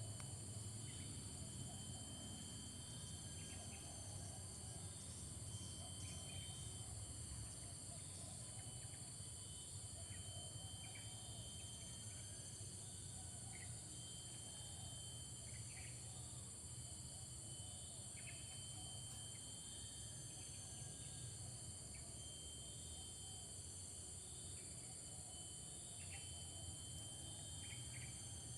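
Steady chorus of insects such as crickets, a continuous high-pitched shrilling, with a faint chirp repeating about every two seconds.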